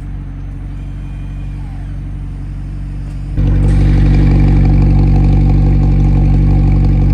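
McLaren 765LT's 4-litre twin-turbo V8 idling steadily. About three and a half seconds in, it abruptly becomes much louder and holds that steady, even note.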